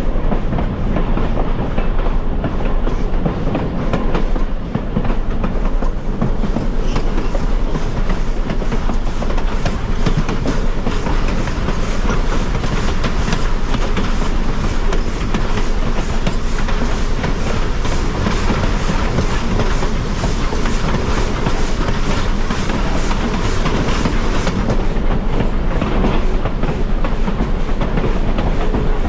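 A passenger train rolling steadily along the track, heard aboard: continuous running noise with the wheels clicking and clacking over the rail joints.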